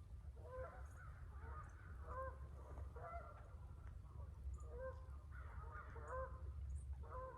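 Birds calling: a large bird gives repeated harsh calls about once a second, in short bouts, over a few faint, high chirps from small birds.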